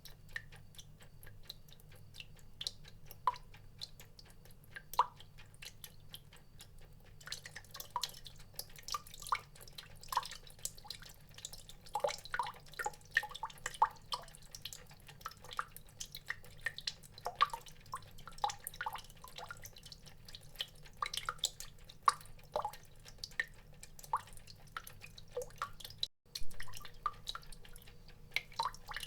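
Water drops falling and plinking irregularly, a few scattered drops at first, then many more from about seven seconds in, over a faint steady low hum. The sound cuts out for a moment near the end.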